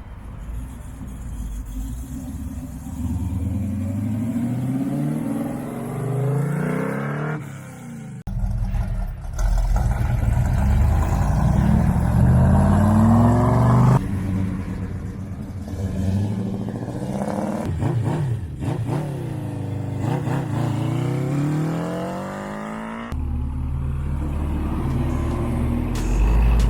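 Performance car engines accelerating hard in several pulls, the pitch climbing and dropping back with each gear change, with abrupt changes between passes.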